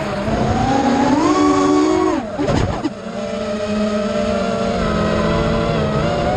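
Brushless motors and tri-blade props of a 5-inch FPV freestyle quadcopter (Lumenier RX2206 2350 kV motors) whining, the pitch rising and falling with the throttle. About two and a half seconds in, the sound dips sharply and breaks up briefly before settling into a steadier whine.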